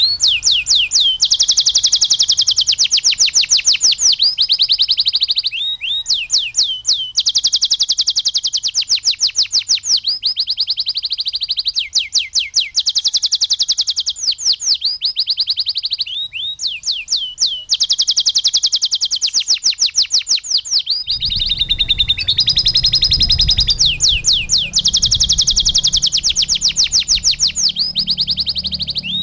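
Domestic canary singing: long runs of fast, evenly repeated trill notes, each held a second or two before switching to another note type. A low rumble joins about two-thirds of the way through.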